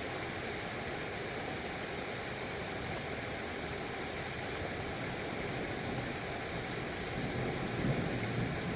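Steady rain making an even hiss, with a low rumble of thunder swelling and fading near the end.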